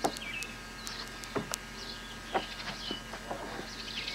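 Birds chirping, with many short high calls repeating, and a few light knocks and taps now and then.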